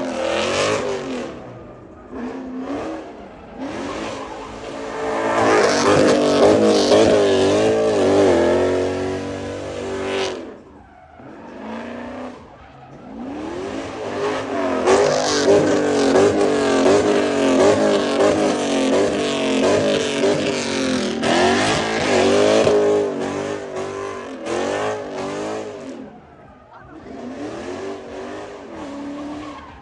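Car engine revving hard, its pitch swinging up and down, in two long stretches split by a short lull about eleven seconds in.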